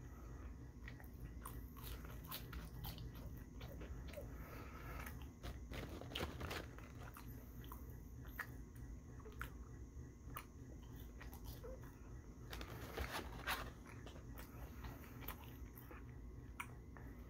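A person chewing and biting French fries and a Wendy's Big Bacon Classic burger, full of short mouth clicks, with a few louder bites along the way.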